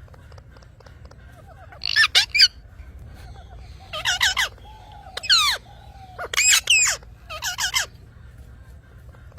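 Parrots calling: five bursts of shrill shrieks, each sweeping down in pitch, starting about two seconds in, with soft, lower chirps between them.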